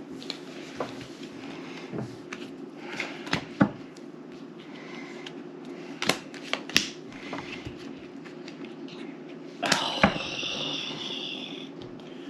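Playing cards being drawn and laid down on a table: scattered sharp taps and light slaps, with a louder rustle lasting about two seconds near the end, over a steady low hum.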